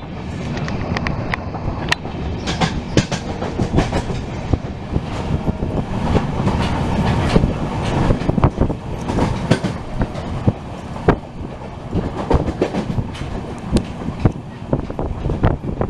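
Train wheels clattering over the rails at speed with a steady running rumble, heard from aboard a moving passenger express. Sharp irregular clicks and knocks come through all along.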